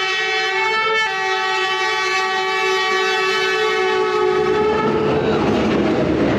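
Locomotive horn sounding one long steady blast, with a brief wobble in pitch about a second in. The horn fades out about four and a half seconds in, giving way to the noisy rumble and clatter of the passing train.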